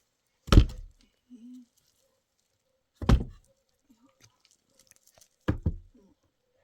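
Three heavy thumps about two and a half seconds apart, the last one doubled, with a few short, faint voice-like sounds between them.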